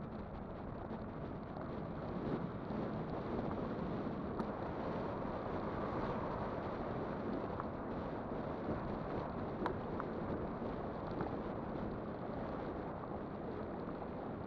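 Steady wind rush on the microphone and tyre rumble from an electric bike riding along, with a few faint clicks or rattles now and then.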